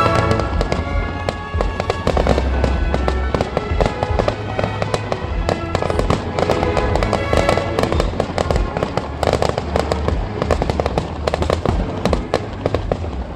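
Fireworks going off in rapid succession, a dense stream of bangs and crackles, with music playing underneath.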